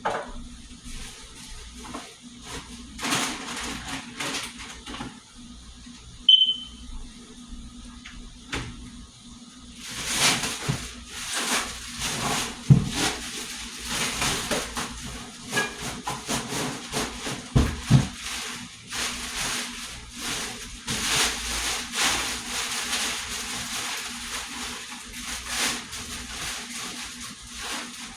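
Kitchen clean-up: knocks and clatter of dishes and containers being handled, with a brief high squeak about six seconds in. From about a third of the way in, tap water runs steadily into the sink under the clatter.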